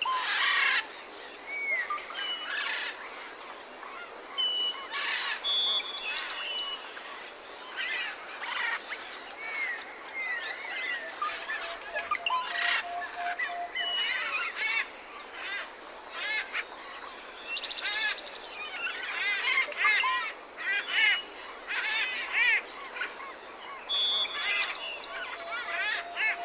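Birds chirping and twittering: many short calls and quick rising and falling whistles, some repeated, with a steady faint high tone beneath.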